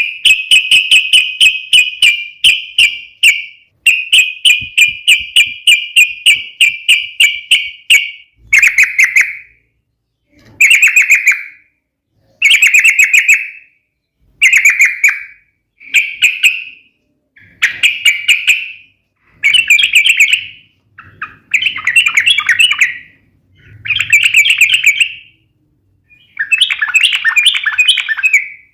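Yellow-vented bulbul (trucukan) giving its sharp, rapid-fire fighting song (ropel). It starts with an unbroken run of fast notes lasting about eight seconds, then comes in repeated bursts of a second or so with short pauses between them.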